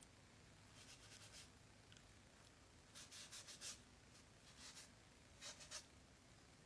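Faint, scratchy rubbing strokes on an oil painting canvas, coming in short clusters: paint being worked or wiped off the surface.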